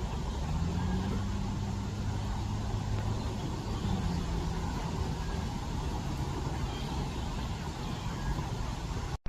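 Steady outdoor background rumble of road traffic, with a car's low engine hum rising slightly in pitch over the first few seconds. It cuts off suddenly near the end.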